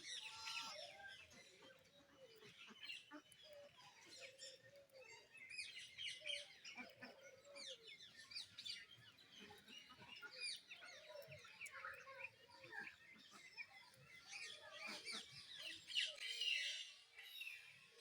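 Many birds chirping and calling over one another: a dense stream of quick high chirps, with lower calls mixed in.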